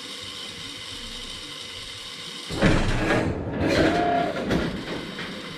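1927 Ford Model T engine being started after standing sixty years unrun: a steady mechanical whir, then about two and a half seconds in a much louder, uneven mechanical clatter takes over.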